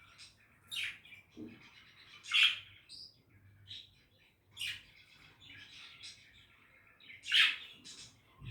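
Budgerigar chatter: quick high chirps over a soft, continuous warbling, with sharp louder calls, the loudest about two and a half seconds in and again near the end.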